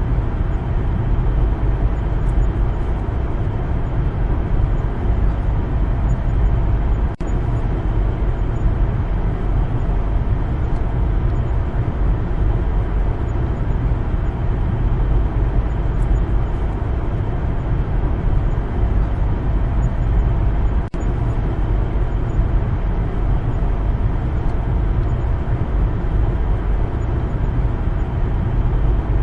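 Steady rumble of a car driving, its engine and tyres on the road, with two very brief dropouts about 7 and 21 seconds in.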